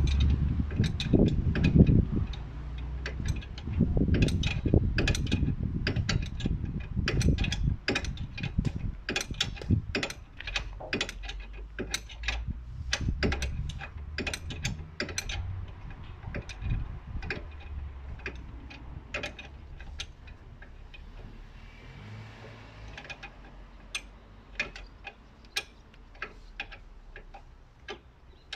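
Metal hand tool worked in a rapid, irregular run of sharp clicks, over a low rumble that is loudest for the first several seconds and then fades.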